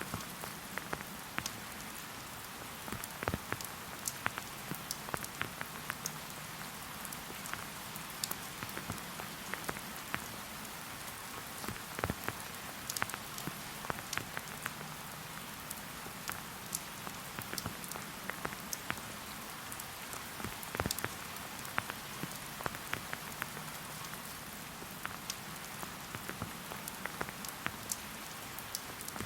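Steady rain falling in a forest, a soft hiss with many separate drops ticking close by at irregular moments.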